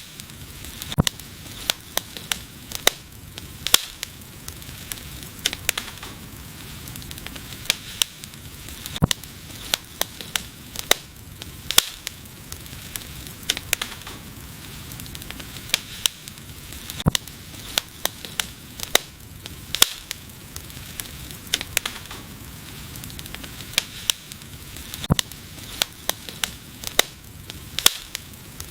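Wood fire burning, with a steady low hiss and frequent sharp, irregular crackles and pops.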